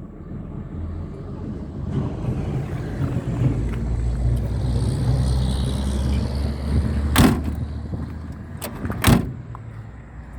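A car engine running, building up over the first couple of seconds and easing off toward the end, with two sharp knocks about seven and nine seconds in.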